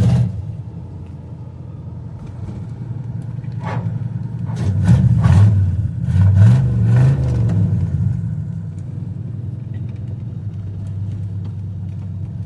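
The engine of a 1977 car being driven, a steady low drone that swells as it accelerates about four seconds in, its pitch rising and falling for a few seconds before it settles back to a steady cruise. It makes a lot of noise for little pull, which the driver puts as she "ain't got no balls."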